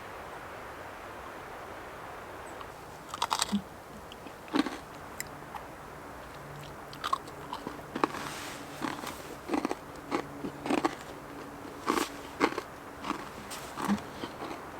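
A person biting into and chewing a crisp, freshly baked chocolate cookie: a string of irregular crunches starting about three seconds in, over a faint steady hiss.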